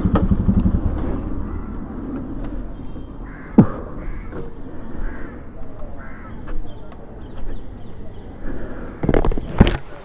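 Motorcycle engine idling, then switched off about a second in. Afterwards there is street background with crows cawing several times, a sharp click a few seconds in, and a couple of knocks near the end.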